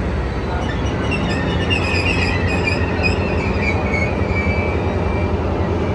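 Passenger train rolling along the station tracks with a low rumble, its wheels giving a high, wavering metallic squeal that starts about a second in and fades out near the end.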